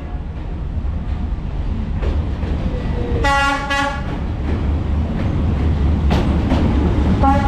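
Diesel train running close by with a steady low rumble that grows louder, sounding its horn in two short blasts about three seconds in and again near the end.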